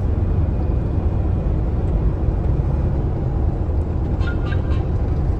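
Kenworth T680 semi-truck driving, a steady low engine and road rumble.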